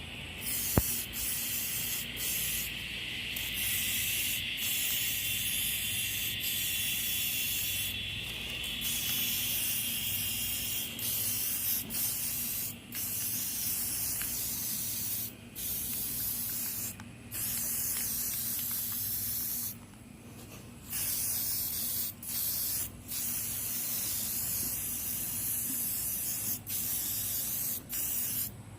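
Spray paint hissing from the nozzle in long bursts with many brief breaks, laying light coats of paint on a small engine.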